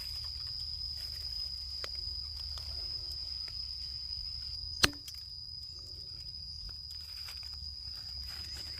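A steady, unbroken high-pitched insect drone with faint rustles and light clicks, and one sharp snap about five seconds in that is the loudest sound.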